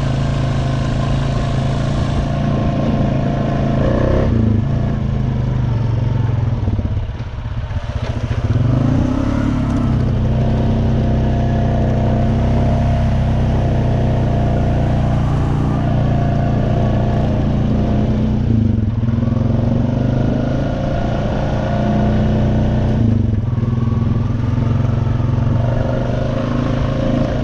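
Honda Rancher 420 ATV's single-cylinder four-stroke engine running steadily while riding, with a brief let-off of the throttle about seven seconds in before it picks up again.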